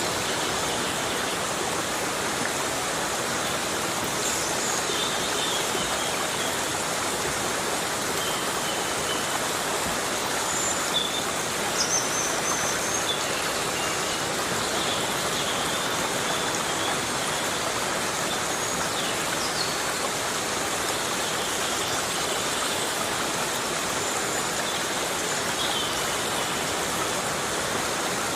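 Steady heavy rain falling in a rainforest, an even hiss that does not change. A few faint, brief high chirps stand out now and then.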